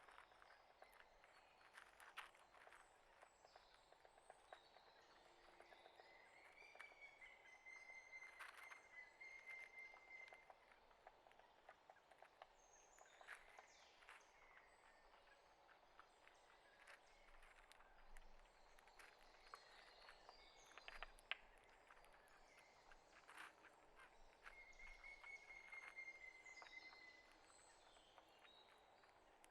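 Faint outdoor ambience with small birds: scattered high chirps, twice a long, steady whistled note of about three seconds, and many small irregular clicks and ticks throughout.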